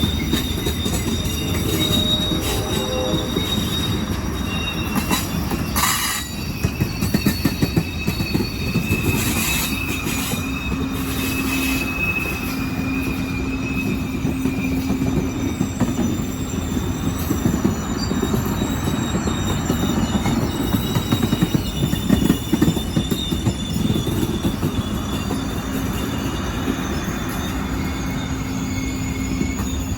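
A train rolling past with a steady rumble, its steel wheels squealing against the rails in thin high tones. There are a few sharp clanks about six seconds in and again around ten seconds in.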